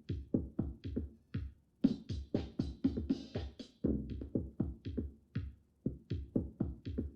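Programmed electronic drum beat from a drum machine, looping a steady pattern of deep thumping hits at about four to five a second. Higher crisp hits join in and thicken the pattern from about two to four seconds in.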